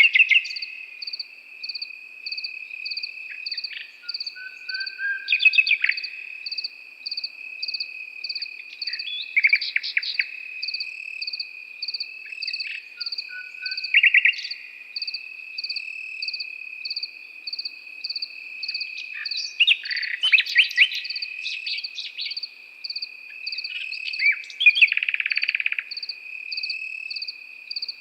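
A nightingale singing in separate short phrases of quick, varied notes every few seconds, over crickets: one steady high trill and a second insect's regular pulsing chirp.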